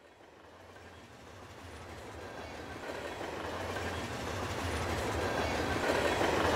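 A train rolling along the track, a steady rumble with a low hum that grows steadily louder as it approaches.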